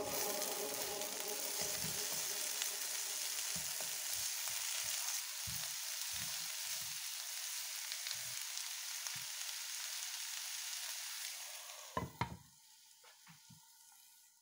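Sliced potatoes, bell peppers and onion sizzling in oil in a frying pan, with soft knocks and scrapes from a spatula stirring them. About twelve seconds in, a glass lid is set on the pan with a couple of sharp knocks, and the sizzle drops to a faint hiss under it.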